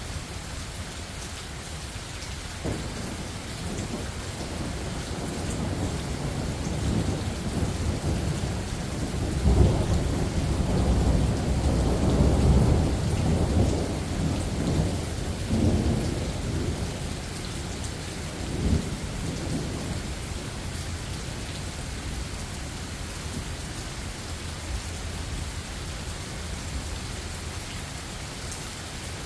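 Steady rain falling through the trees, with a long roll of thunder that builds from about three seconds in, is loudest around ten to thirteen seconds, cracks again a couple of times, and dies away to rain alone for the last third.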